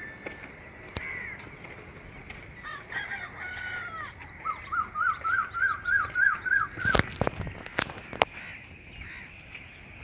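A bird calling, ending in a quick run of about ten short repeated notes, four or five a second. A few sharp knocks come near the end and are the loudest sounds.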